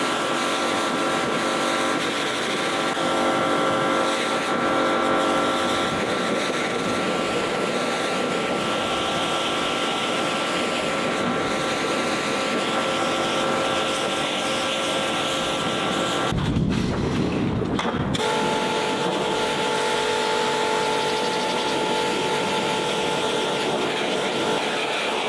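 Pressure washer running as the bodywork is rinsed: a steady motor and pump whine over the hiss of the spray. About two-thirds of the way through it changes briefly, then carries on at a different pitch.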